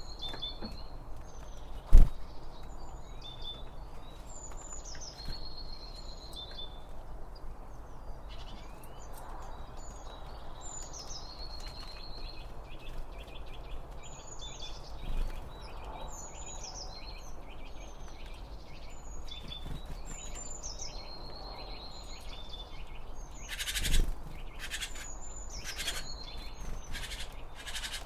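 Songbird singing, repeating a short high phrase of chirped notes every few seconds over a steady low background hiss. A sharp knock comes about two seconds in, and a duller thump comes near the end.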